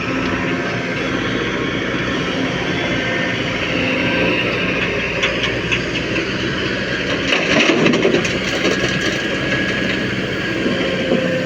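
Heavy diesel machinery, a Kobelco SK220 excavator working beside a tractor, running steadily. In the middle there is a stretch of clattering knocks, loudest about eight seconds in.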